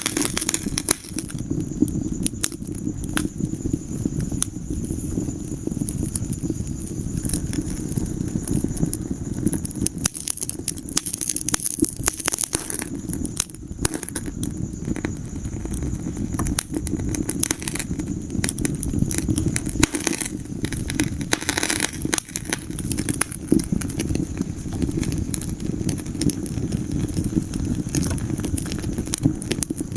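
Wood fire burning in a fireplace: a steady low rumble of flames with dense, irregular crackles and pops of burning logs.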